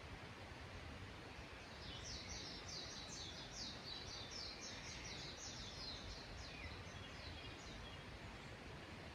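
A small songbird singing a fast run of short, repeated high notes for about four seconds, starting about two seconds in. Under it runs a steady, even background noise.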